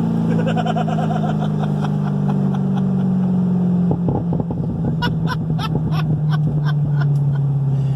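Cammed LS7 V8 of a 2010 Corvette Z06 running through a new exhaust under way, its note easing slowly downward in pitch as the revs fall. A run of sharp clicks comes between about five and seven and a half seconds in.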